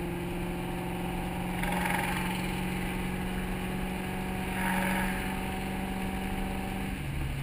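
Mustang V8 engine heard from inside the car, droning at a steady pitch while cruising after a third-gear pull, then dropping lower about seven seconds in as the driver eases off.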